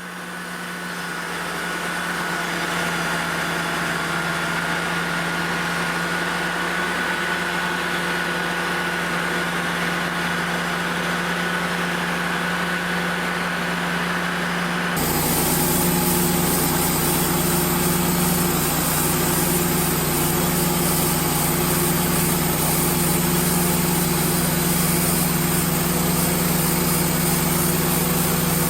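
Portable bandsaw mill's engine running steadily with a faint high whine; about halfway the sound changes abruptly to a fuller, louder steady run.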